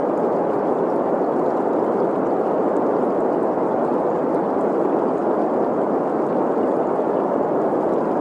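Steady green noise, an even rushing hiss centred in the middle range, blended with the sound of a flowing stream.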